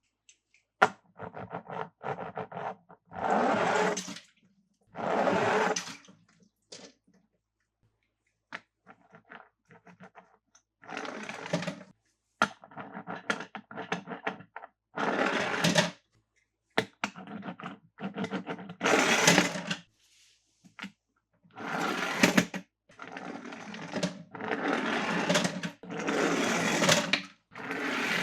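Handling of toy cars and their plastic packaging: bursts of rustling, scraping and clicking, each a second or two long, with short silent gaps between them.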